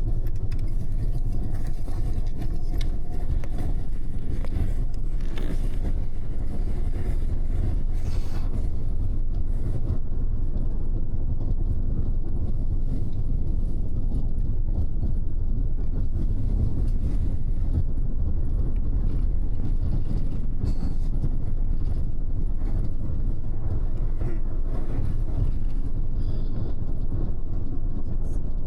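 Double-decker bus cabin: the diesel engine and tyre rumble go on steadily and low, with a few faint clicks in the first several seconds.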